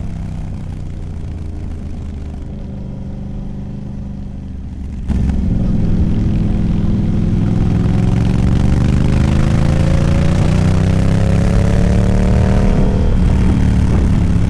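Sport motorcycle engine running at a steady pitch, then about five seconds in it suddenly gets louder and its pitch climbs slowly and steadily as the bike accelerates, breaking off shortly before the end.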